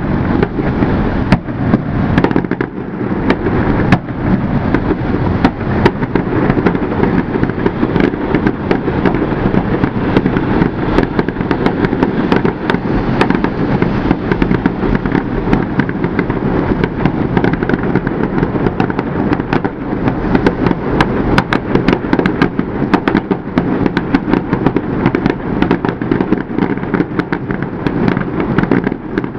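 Fireworks display: a dense, continuous barrage of bangs and pops, many shells going off in quick succession.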